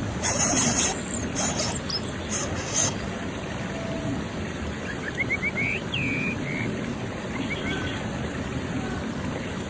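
Outdoor ambience: a steady low rumble with a few short bursts of high hiss in the first seconds. Some faint, quick bird chirps come about halfway through.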